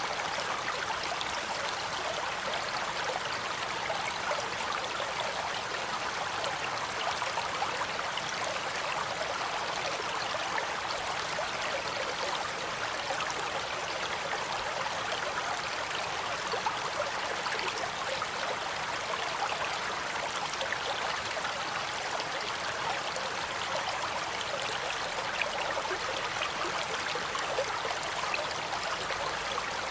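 Stream water flowing and trickling steadily, an even babbling rush with fine splashes throughout.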